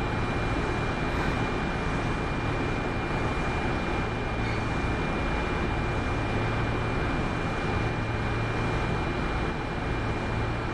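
Steady onboard noise inside a Kintetsu 8810 series electric train car: an even rumble with a low hum and a faint constant high whine, unchanging throughout.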